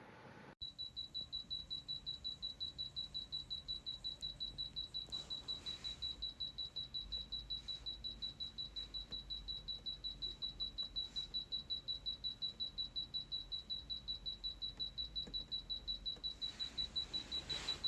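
Dreo ceramic space heater beeping rapidly and without pause, one high-pitched beep repeated about five times a second, starting about half a second in. The heater won't switch off while it beeps.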